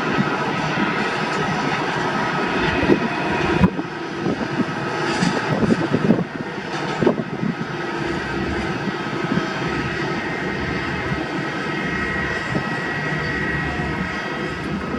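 Jet airliner engines running: a steady rushing noise with a thin high whine over it.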